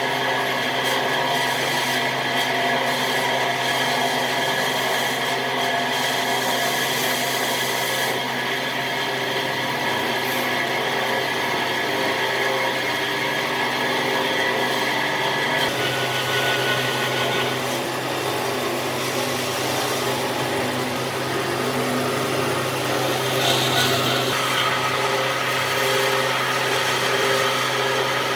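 An electric power tool running steadily as it works wood, its tone shifting about sixteen seconds in.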